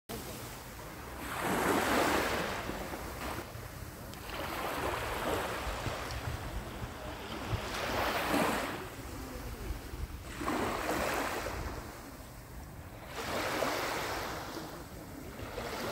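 Small sea waves washing onto the shore, each rush swelling and fading about every three seconds, five times in all. Wind rumbles steadily on the microphone underneath.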